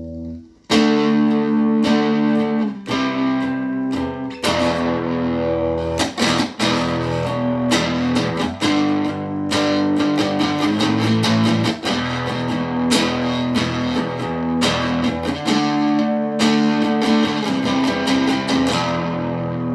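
Guitar played through effects, strumming chords with ringing, sustained notes. It starts after a brief break just under a second in and is the instrumental opening of a song.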